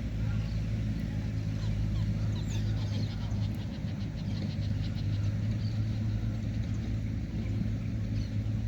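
A steady low engine hum with bird chirps above it, including a fast run of repeated high notes a few seconds in.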